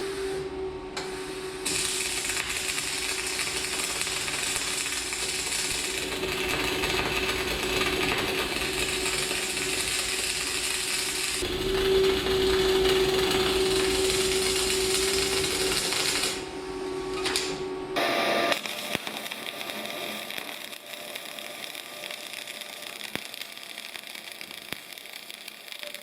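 Semi-automatic gas-shielded arc welding with 1.2 mm flux-cored wire at about 250 A and 28 V, a fillet weld being run: the arc crackles and sizzles steadily. It breaks off briefly near the start and again about two-thirds through, then stops about 18 seconds in, leaving a quieter steady machine hum.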